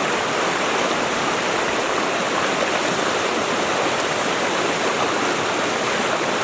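River water rushing steadily, the stream running high and knee-deep after heavy rain.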